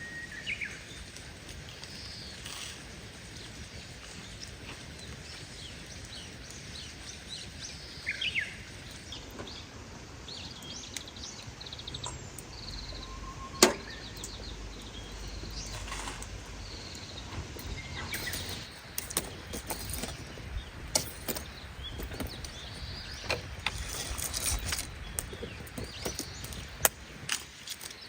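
Small birds chirping over a steady hiss of light rain. There is one sharp click about halfway, and from about two-thirds of the way in, frequent rustling and knocking of gear being handled.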